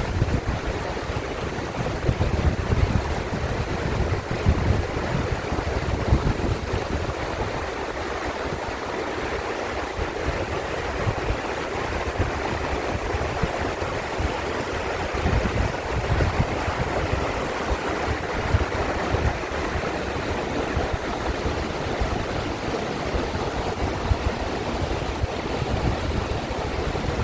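A mountain valley stream rushing steadily, with gusts of wind buffeting the microphone in low rumbles.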